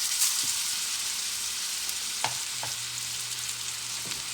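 Seasoned chicken sizzling in a hot pan just after going in: a steady frying hiss with scattered pops and crackles. A low steady hum joins about halfway through.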